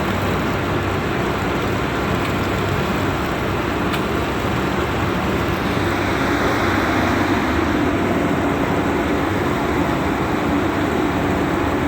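A ship's engine running steadily, a constant low drone with an even rushing noise over it.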